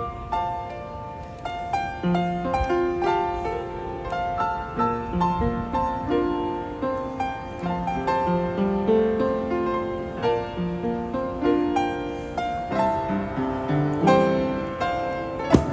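Piano played in a quick, busy run of melody and chords, with a few low cajon thumps under it.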